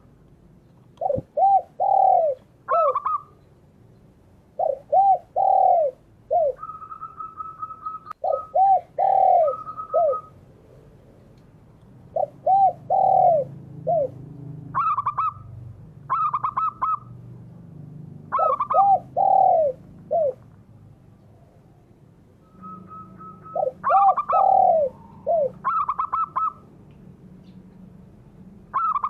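Doves cooing, which the recording names as derkuku (spotted dove) and perkutut (zebra dove). Phrases of three or four rounded, arching coos repeat every few seconds, with higher, steadier trilling coos between them.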